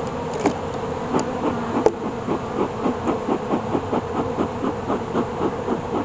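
Honeybees buzzing in a steady hum around an open hive, with a rapid, even pulsing of about four beats a second and a few light clicks near the start.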